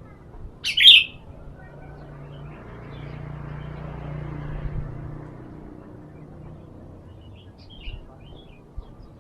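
Sooty-headed bulbul (kutilang) giving one loud, short call about a second in, then a few soft short notes near the end. A low hum swells and fades in the middle.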